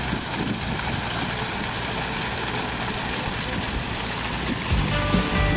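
Engine of a mobile flood control pump running steadily. Guitar music comes in near the end.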